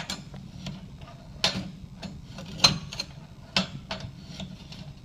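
Irregular light metallic clicks and ticks from a bandsaw blade sharpening jig as the blade and jig are worked over by hand, a few louder clicks about a second apart, with the grinder not running.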